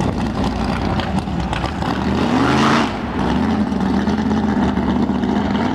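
1971 Plymouth Duster drag race car's engine running as the car pulls away. Its note revs up about two seconds in, then drops back and holds steady.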